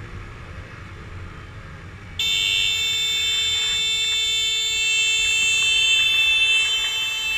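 A vehicle horn blown and held in one long high-pitched blast, starting about two seconds in over low road noise.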